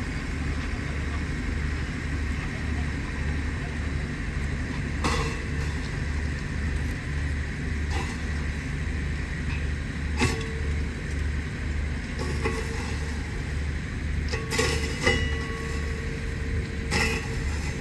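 Diesel engine of a train running steadily with a low, regular throb. Sharp metallic clanks, several with a short ring, come about six times as railway cars separate and roll.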